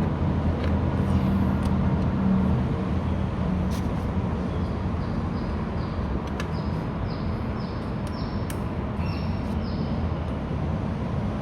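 Road traffic rumbling steadily, a vehicle going past in the first few seconds, with a few sharp clicks and a run of short high chirps from about four seconds in.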